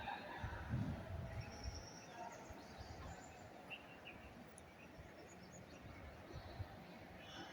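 Faint, scattered bird chirps, a few short high notes, over quiet outdoor background noise, with a low rumble in the first second or so.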